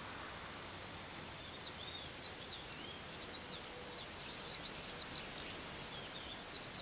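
Songbird singing: soft, scattered warbling notes, then a quick run of sharp, high chirps about four seconds in, over a steady outdoor hiss.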